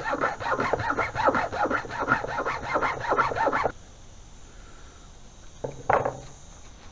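Small hacksaw cutting through a stranded welding cable with quick, even strokes; the sawing stops about three and a half seconds in, and one short scrape follows near the end.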